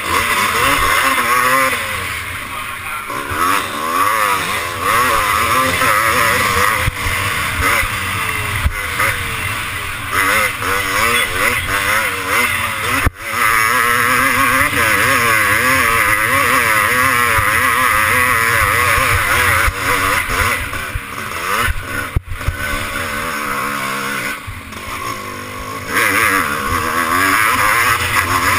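Motocross motorcycle engine revving up and down over and over, as throttle and gears change on a race track, under a steady rush of noise. It cuts out sharply for an instant twice.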